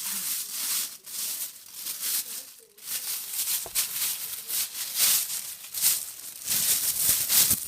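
Irregular rustling and rattling of debris being handled: the dust, wood, fluff, paper and plastic that had clogged a Numatic Henry vacuum cleaner and stopped it working properly.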